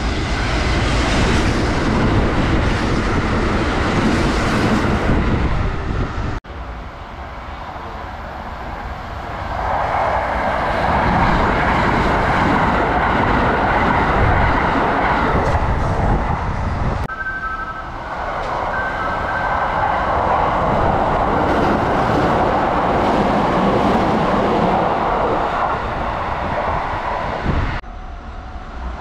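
Kintetsu limited express electric trains running through stations at speed, with a steady rumble and rush of wheels on rails. The sound breaks off suddenly and starts again three times: about six seconds in, about seventeen seconds in and near the end.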